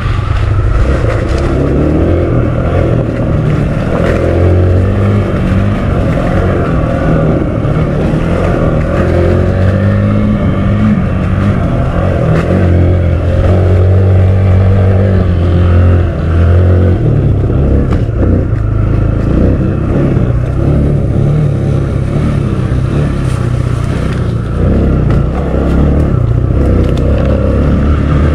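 Kawasaki KLX 150L's single-cylinder four-stroke engine running under way, its note rising and falling with the throttle and changing pitch about two-thirds of the way through.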